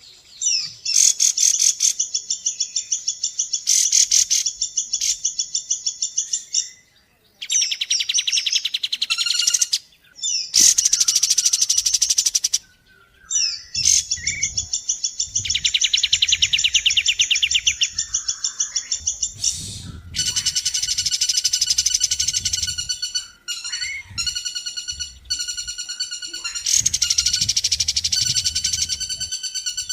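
Recorded bird calls of the kapas tembak and the pelatuk bawang (common flameback woodpecker): fast, rattling trills of rapidly repeated high notes, in bursts of a few seconds with short breaks between them.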